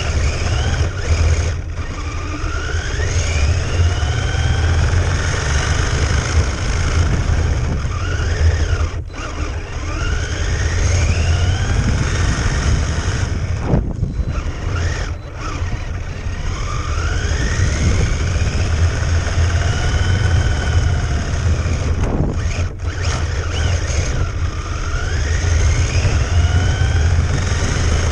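RC car motor whining, rising in pitch again and again as the car accelerates, over a steady low rumble.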